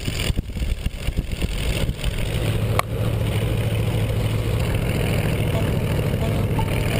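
1953 Cadillac V8 in an open rat rod roadster, running steadily as the car drives along the road. Irregular thumps come over the first two seconds, and a single sharp click sounds near the middle.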